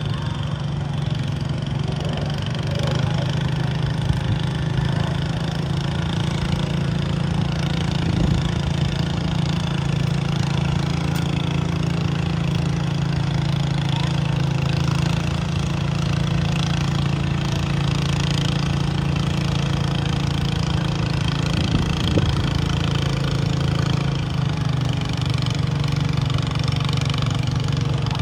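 Garden tractor engine running steadily at constant speed, a loud even hum with no changes in pitch.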